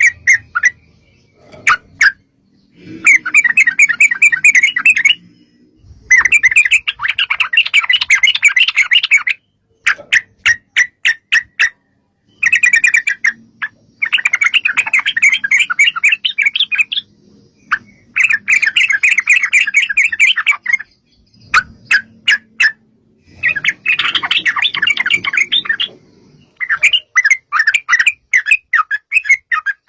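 Yellow-vented bulbul (trucuk) singing: long bursts of rapid chattering song a few seconds each, about six of them, with runs of short sharp call notes between the bursts.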